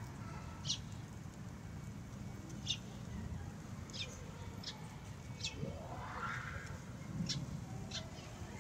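Wild birds chirping: short, high calls every second or so, with one longer rising call about six seconds in, over a steady low outdoor background hum.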